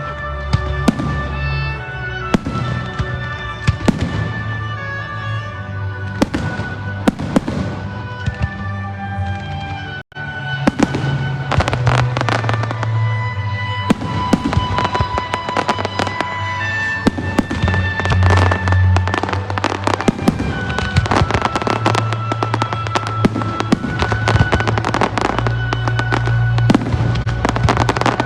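Fireworks going off in rapid succession, many sharp bangs and crackles, over loud music with steady bass and held tones, as in a pyromusical display.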